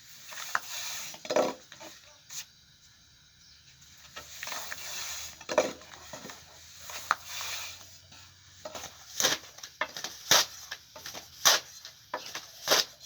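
Kitchen utensils clinking, scraping and knocking against pots and pans at an irregular pace while bread is cooked, with several sharper knocks in the last few seconds.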